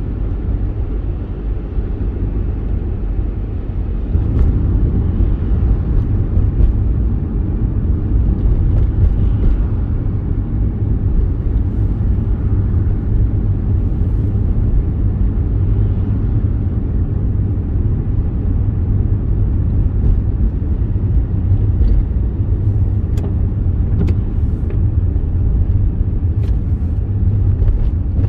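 Steady low rumble of a car driving, engine and road noise running evenly, a little louder from about four seconds in, with a few faint clicks in the second half.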